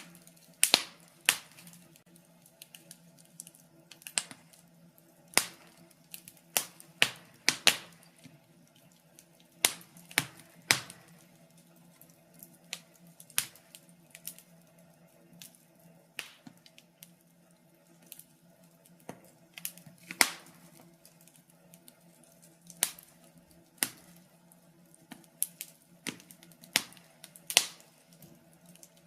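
Wood fire crackling, with irregular sharp pops and snaps, a few of them much louder than the rest, over a faint steady low hum.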